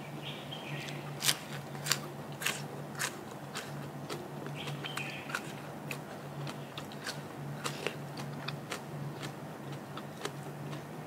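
A person biting and chewing crunchy food close to the microphone: sharp crisp crunches about twice a second, the loudest about a second in.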